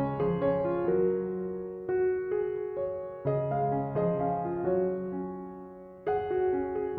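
Background music: gentle solo piano playing slow phrases, notes ringing and fading between chords.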